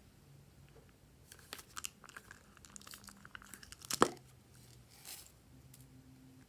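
Glossy slime being squeezed and stretched by hand, giving a run of crisp crackling clicks and pops as trapped air bursts, with one loud sharp pop about four seconds in.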